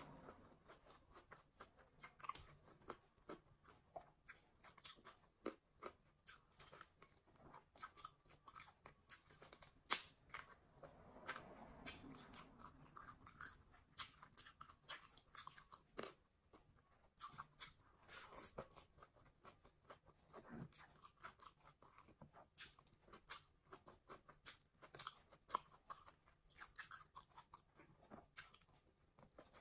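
Close-miked eating: a person chewing mouthfuls of fried rice and salad eaten by hand, with wet mouth clicks and crunches coming irregularly throughout, one sharper click about ten seconds in.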